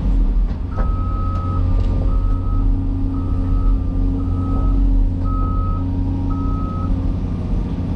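A heavy machine's backup alarm beeping six times on one tone, about once a second, over the steady low rumble of a diesel engine.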